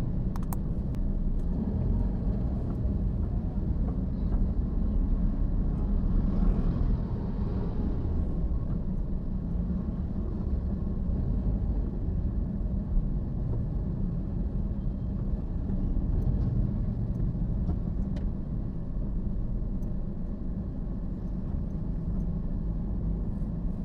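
Steady low rumble of a car driving, engine and tyre noise with no sharp events.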